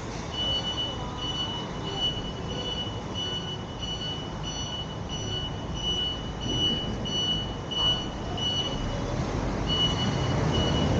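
A high electronic beep repeating evenly, about one and a half times a second, with a short break near the end before it starts again. Underneath is the constant low rumble of a vehicle on the road.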